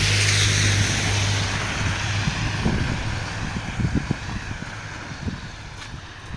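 A car driving past on a rain-wet road: tyre hiss on the water with a low engine hum, loudest at first, the hum dropping away about two seconds in and the hiss fading as the car moves off.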